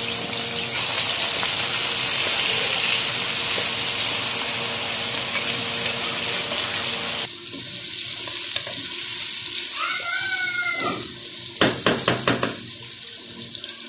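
Sliced bitter gourd sizzling as it fries in hot oil in a metal pan, a steady hiss that drops quieter about seven seconds in. Near the end a wooden spatula knocks against the pan several times in quick succession.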